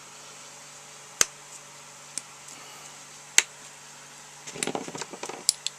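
Metal machine parts being fitted together by hand: two sharp metallic clicks about two seconds apart, then a run of small clinks and rattles near the end, as a steel wheel blank and washer go onto an arbor. A faint steady hum underneath.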